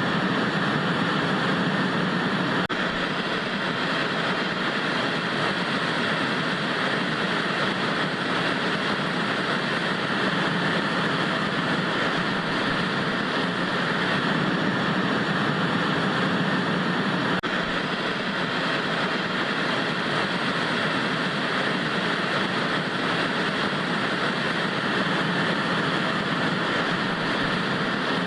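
Steady hiss of analogue TV static, an even rushing noise with no tone or rhythm, with two faint clicks, one about three seconds in and one a little past halfway.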